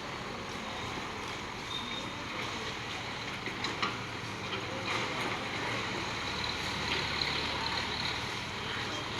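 Steady outdoor background noise with a few short faint knocks about four and five seconds in, and a low hum that joins about six seconds in and fades out near the end.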